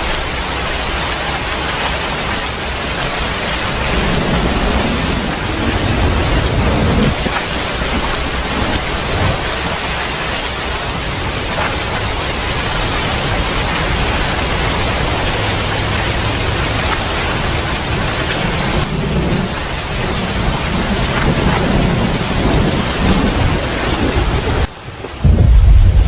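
Heavy rain pouring steadily, with rolls of thunder rumbling low twice, once about four seconds in and again past the middle. Near the end the sound cuts out for a moment and a loud thunder rumble begins.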